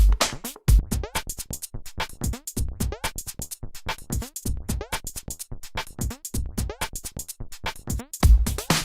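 Electronic music built on a drum machine beat, with quick percussive hits and short falling synth tones; the deep kick drum drops out about a second in and comes back near the end.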